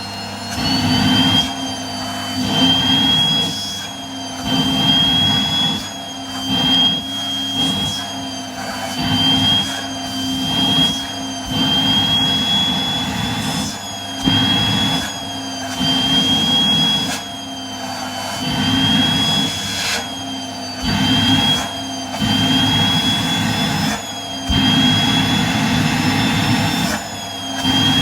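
Vacuum cleaner running with a steady high-pitched motor whine, its suction noise swelling and dropping every second or two as the nozzle is pressed on and drawn off tights and skin.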